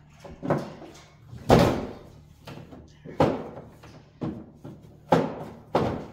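About six knocks and thuds over a few seconds, the loudest about one and a half seconds in: hard items being handled and set down in a freezer, over a faint steady low hum.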